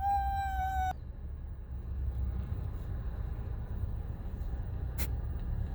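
A long howl that rises at the start and then holds one steady pitch, cut off sharply after about a second. After it comes the low, steady rumble of a car driving, heard from inside the cabin, with a single click near the end.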